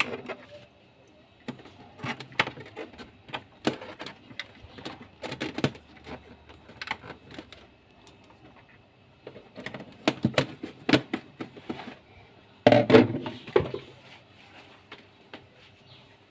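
Irregular clicks and knocks of screws and hard parts being handled and fastened while a refrigerator is reassembled, with two louder bursts of rattling a little after halfway and about three quarters of the way in.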